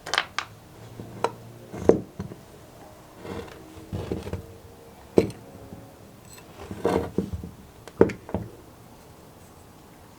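Hand tools and small parts being handled on a workbench during carburetor work: about eight irregular sharp clicks and knocks, with some rattling in between.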